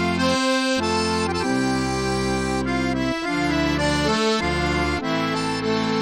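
Accordion music: a melody of held notes over sustained bass chords that change every second or so.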